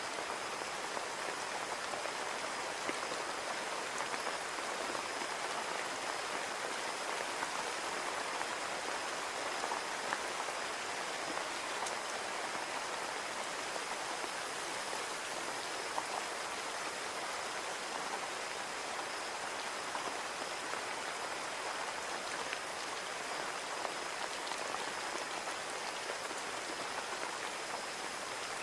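Steady rain falling on a window, an even hiss with scattered individual drop ticks.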